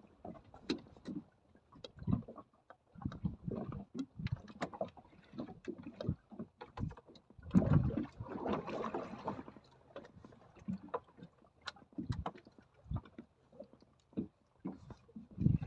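Choppy water slapping and splashing against a small boat's hull in irregular surges, with scattered sharp knocks and clatter from the boat.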